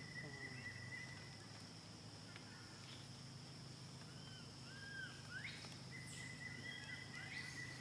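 Outdoor ambience with a steady high insect drone and a thin steady whistle-like tone. A few short arched chirping calls come between about three and a half and five seconds in, followed by a quick rising call.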